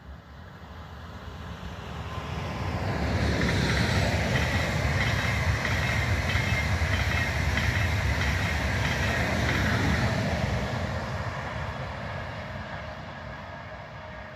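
ICE 1 high-speed electric train passing at speed: a rising rush of wheels on rail and air that swells over the first few seconds, holds loud for about six seconds as the coaches go by, then fades as the train recedes.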